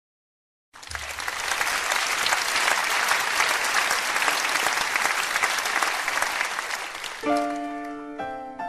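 Audience applause starting suddenly about a second in, then giving way near the end to slow piano notes.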